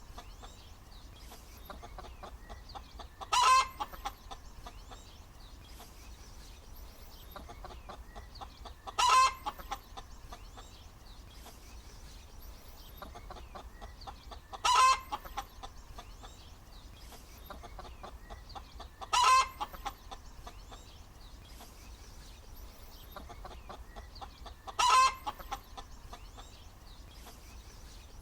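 Hen cackling: five loud, short squawks about every five and a half seconds, with softer continuous clucking between them.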